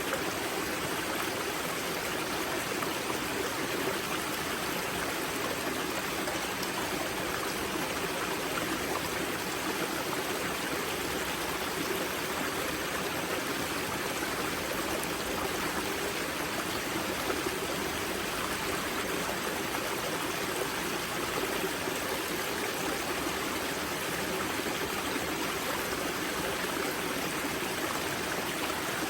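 Water of a karst spring rushing and burbling as it flows out of the wellhead into the river: a steady, unbroken stream sound.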